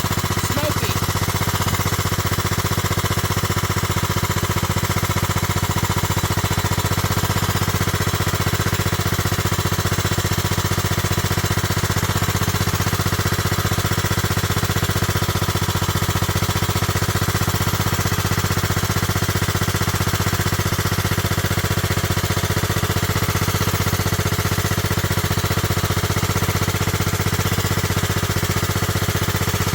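Kohler Command 16 hp lawn mower engine running steadily, with a rapid, even exhaust beat.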